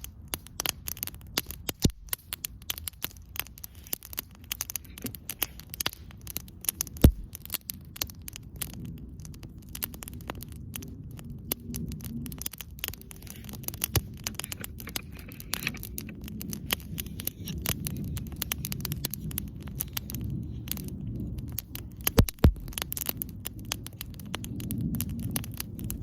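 Wood campfire crackling, with many small pops and a low rumble underneath. There is a sharper knock about seven seconds in and another about twenty-two seconds in.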